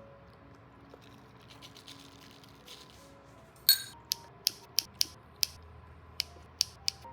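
A loud sharp click with a short metallic ring about halfway in, then a quick run of sharp clicks, roughly two or three a second, like snipping or a ratchet.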